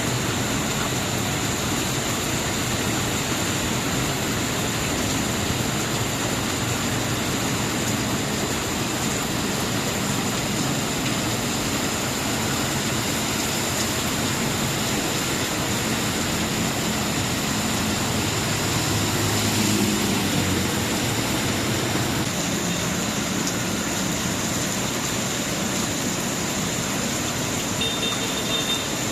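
Heavy rain pouring down steadily, a dense even hiss of water. About two-thirds of the way through, a motor vehicle engine passes briefly under the rain.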